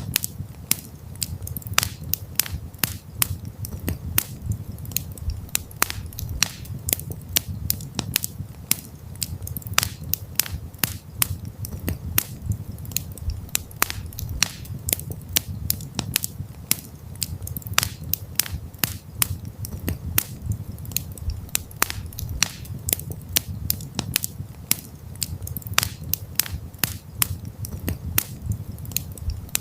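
Campfire crackling: frequent sharp pops and snaps at irregular intervals over a steady low rumble of the burning fire.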